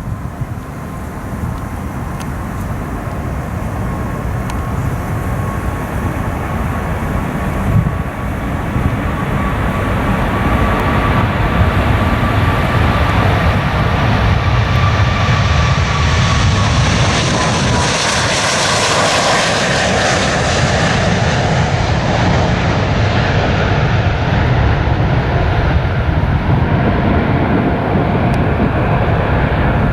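Jet airliner taking off at full thrust, its engine roar swelling over the first ten seconds or so and then holding loud. Near the middle, as it passes closest, a fan whine drops in pitch and the hiss peaks.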